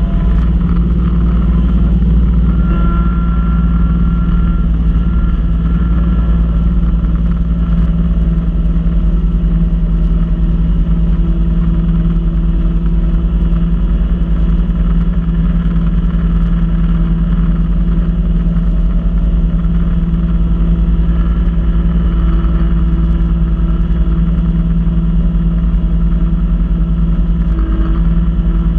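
Kubota B2650 tractor's three-cylinder diesel engine running steadily at a constant drone while driving its front-mounted B2782 snow blower.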